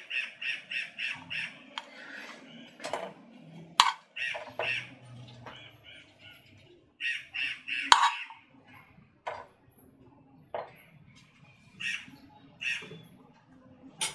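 A bird calling in quick runs of short repeated notes, about four or five a second, several times over, with a few sharp clinks of a metal spoon against a pot.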